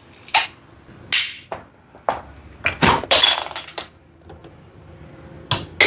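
A series of sharp clicks and knocks, about eight spread unevenly over a few seconds, from the small fridge-magnet record player and its discs being handled and set up.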